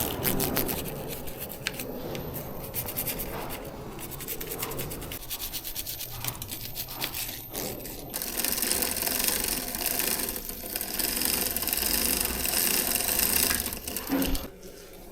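Bicycle chain being worked through a homemade chain cleaner: rapid clicking from the chain and drivetrain, then about halfway through a steadier scrubbing hiss.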